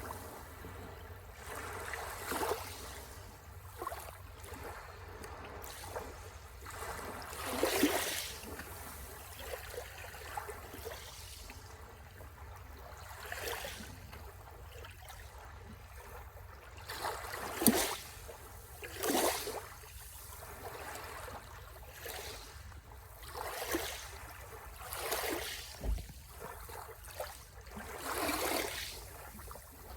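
Small sea waves washing and splashing at the shore, a short splash every one to three seconds, over a steady low rumble.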